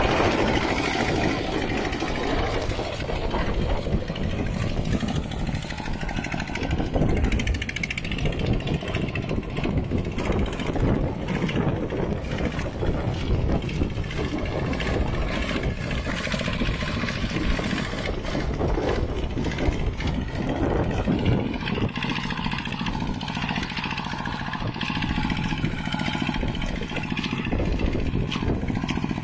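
Mini tractor engine running steadily while plowing a wet, muddy field.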